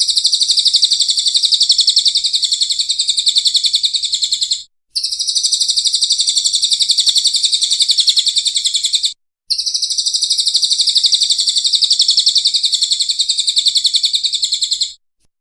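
A bird's fast, high trill, repeated in three bouts of about four and a half seconds each, each breaking off suddenly for a short gap.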